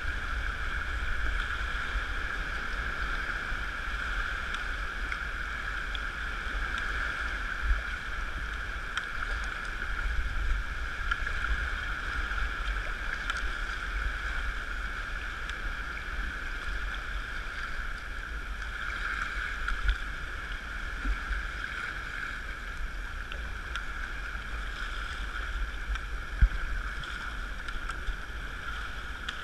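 Sea kayak under way: a steady rush of water with wind rumbling on the microphone and a few faint knocks.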